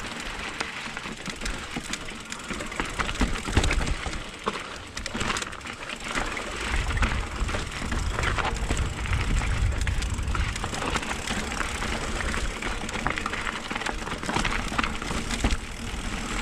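Mountain bike riding down a rough dirt trail: tyres crunching over dirt and stones with the bike rattling through many small knocks. From about a third of the way in, wind buffets the helmet camera's microphone.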